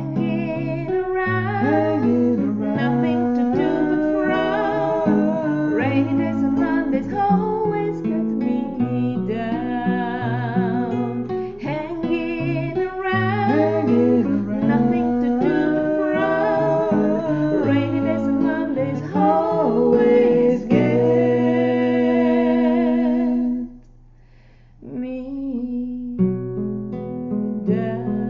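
Acoustic guitar accompanying a solo singing voice. Near the end the voice holds one long note, the sound drops away for about a second, and the guitar carries on.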